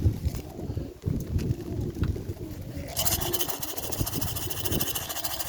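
Pigeons cooing in a continuous low murmur. About halfway through, a steady high hiss joins in.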